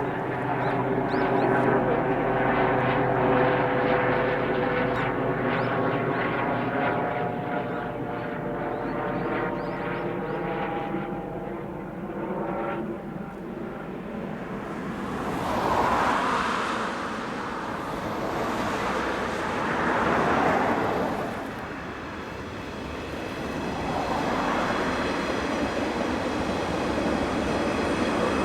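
Train on the Tohoku Main Line running past: a whine of several steady tones for the first dozen seconds, then a rushing noise that swells twice.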